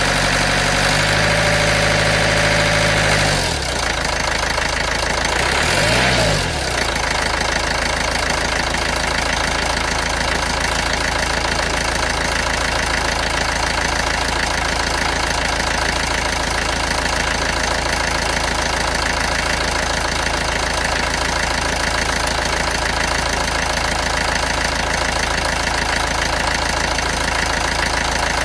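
Toyota four-cylinder diesel engine held at raised revs, dropping back to idle about three and a half seconds in, given one short blip of the throttle around six seconds, then idling steadily with a diesel clatter.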